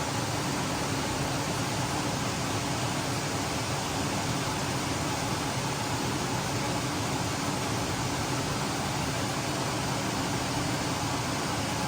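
Steady, even fan-like hiss with a faint low hum under it, unchanging throughout.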